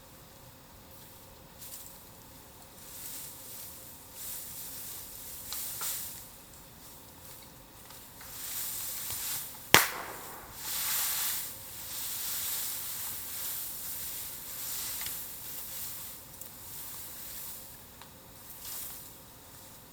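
Bamboo burning in a bonfire: steam and gas hissing out of the heated stalks in swelling surges, with a single loud, sharp pop a little under halfway through as a sealed bamboo segment bursts.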